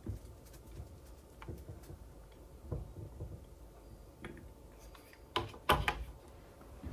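Scattered light clicks and taps from a hot glue gun and glass vase being handled while glue is added, with two louder knocks close together about five and a half seconds in.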